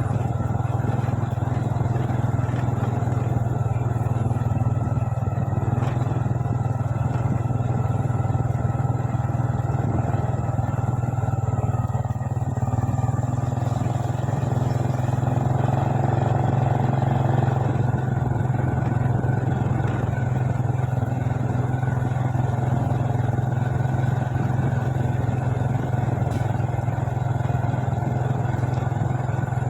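Motorbike engine running steadily, heard from the bike being ridden, with no revving or pauses.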